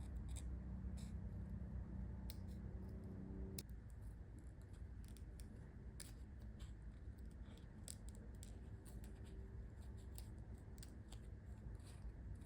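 Scissors snipping sticker paper in a run of short, crisp cuts, over a low steady hum that stops suddenly a few seconds in.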